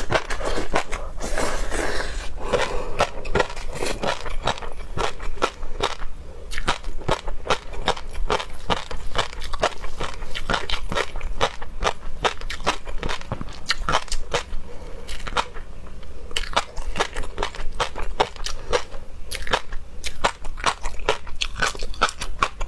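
Close-miked eating of seafood: a person chewing and biting, with many quick, irregular crunching and wet smacking clicks throughout.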